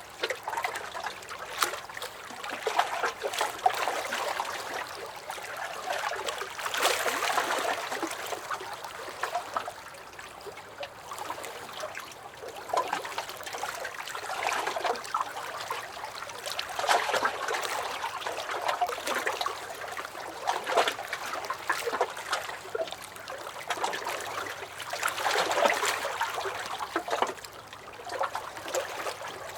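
Small lake waves lapping and splashing against a dock: a continuous patter of little splashes and gurgles, swelling and easing every few seconds.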